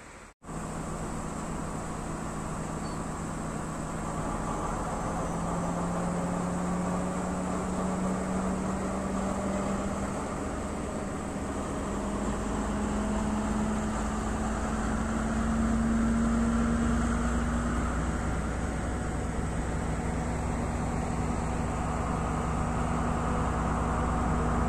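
Diesel passenger train running, heard from aboard: a steady rumble with an engine hum that rises slowly in pitch over several seconds and then holds.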